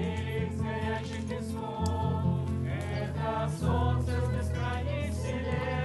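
Music: several voices singing together over held low bass notes.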